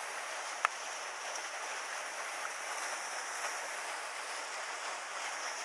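Mountain stream water rushing steadily over rocks, with one sharp click about half a second in.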